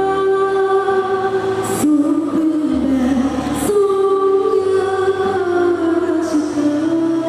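School choir singing a slow Thai song in harmony, several voice parts holding long notes together, with brief sibilant consonants about two and three and a half seconds in.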